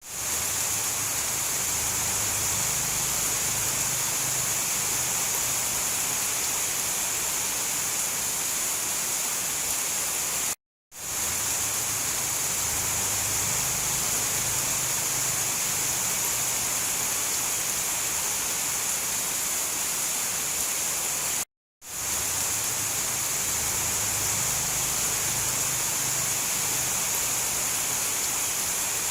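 Steady rain hiss, sounding like a dense downpour, with a faint low rumble underneath and no thunder claps. It cuts out to silence for a split second twice, about every eleven seconds, where the loop restarts.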